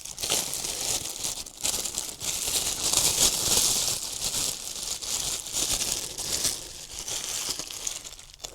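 Thin plastic dog poop bags crinkling and rustling as they are handled and pulled open.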